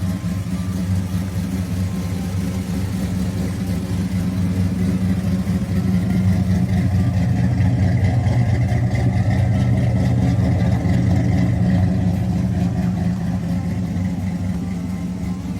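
V8 car engine running steadily, getting a little louder through the middle and easing off near the end.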